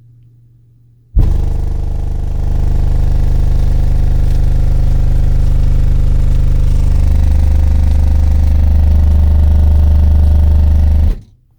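A 25 Hz test tone from a tone-generator app, played loud through car subwoofers as a deep, steady drone. It starts abruptly about a second in, swells slightly a second later, and cuts off suddenly near the end.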